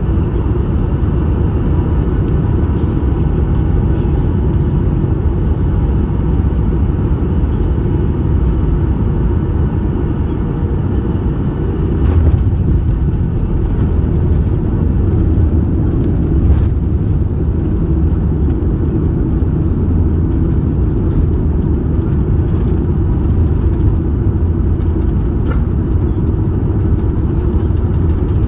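Steady low rumble inside the cabin of a Boeing 737 MAX 8 rolling on the ground after landing: the CFM LEAP-1B engines and the wheels on the pavement. A brief jolt comes about twelve seconds in, and a short knock a few seconds later.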